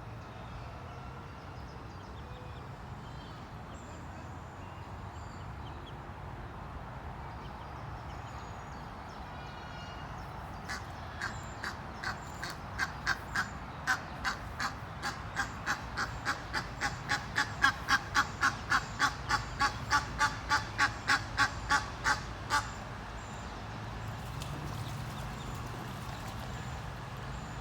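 A duck quacking in a long, rapid series of short quacks that starts about ten seconds in, quickens to about three a second and stops about twelve seconds later, over a steady low background rumble.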